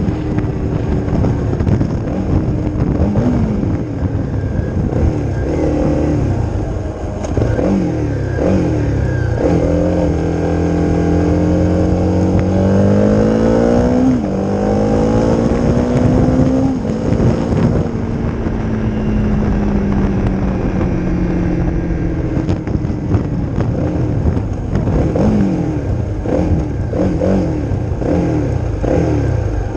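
Honda CRF250's single-cylinder four-stroke engine through an aftermarket Leo Vince exhaust, ridden on the road: the pitch climbs in repeated sweeps as it pulls through the gears, holds a long rising pull midway, falls steadily as the rider eases off, then rises in short sweeps again near the end.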